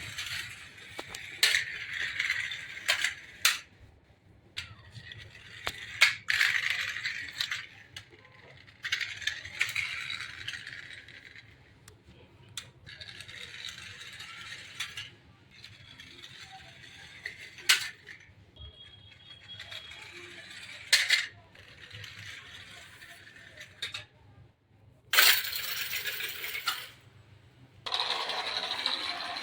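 Remote-control toy jeep driving in spurts: its small motor and plastic gears whir for a few seconds at a time, then stop, with sharp clicks, knocks and plastic rattles in between. A louder, hissing burst of noise comes about 25 seconds in.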